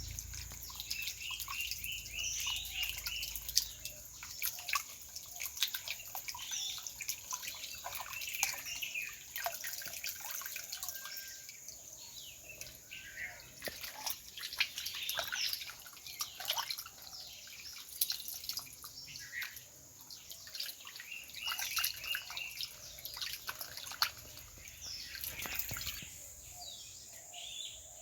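Birds chirping in quick runs, over scattered small clicks and drips and a steady high-pitched whine.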